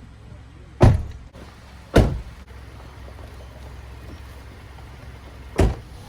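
Car doors being shut: three heavy thuds, two about a second apart and a third near the end, over a low vehicle rumble.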